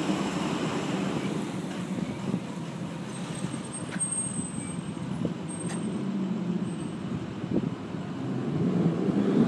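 Engine of the Factory Five GTM twin-turbo car running, a steady low drone that grows quieter through the middle and louder again near the end as the car comes back closer.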